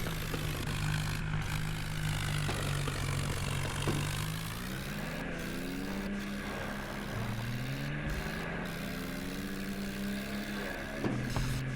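New Holland tractor's diesel engine running under load while pulling a fully loaded trolley. Its pitch rises about five seconds in and again about seven seconds in, then drops slightly near the end.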